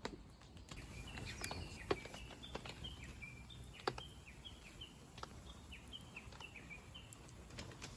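A bird singing a long series of short, high whistled notes repeated a few times a second, some of them slurring downward. Scattered sharp clicks and a low steady outdoor background sit beneath it.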